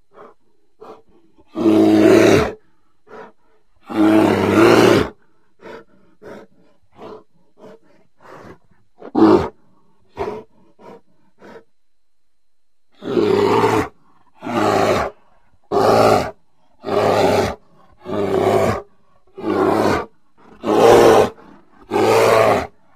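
Bear roaring: two long roars, then a string of short, quieter calls, then a regular series of about eight roars a little over a second apart.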